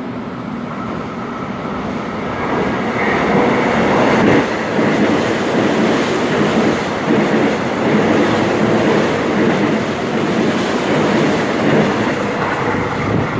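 Korail Class 311000 'dongeul-i' electric multiple unit passing through a station at speed without stopping. A steady VVVF inverter-motor whine sits over the rhythmic clatter of its wheels on the rail joints, swelling about three seconds in and staying loud while the cars go by.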